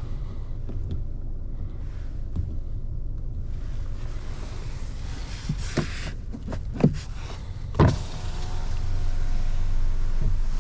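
Low steady rumble of the 2015 MINI One's 1.2-litre three-cylinder petrol engine idling. A little past the middle, three sharp clunks about a second apart come from the rear seats being handled.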